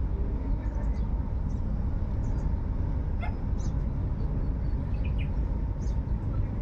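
Steady low rumble with a few short, high chirps scattered over it, including a quick run of them about three seconds in.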